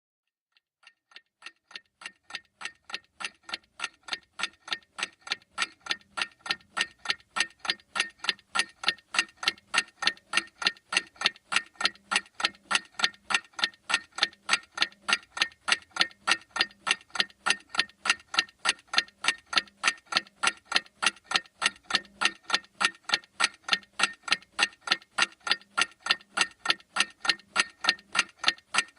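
Clock ticking with sharp, evenly spaced ticks, fading in over the first several seconds and then holding steady.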